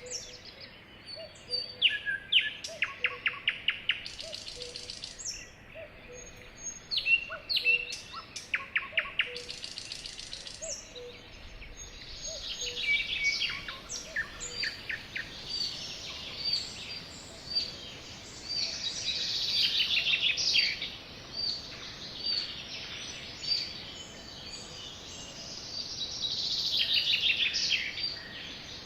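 Sparrows chirping and trilling, several birds calling at once in quick repeated chirps and short rattling trills, thickening into a dense chorus twice in the second half. A faint low note repeats about once a second through the first half.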